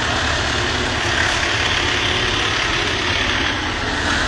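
Heavy vehicle engine idling steadily, a continuous low rumble under a steady hiss.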